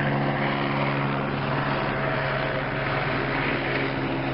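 Steady drone of an airplane's engines, a low hum with a wash of noise above it, holding even throughout.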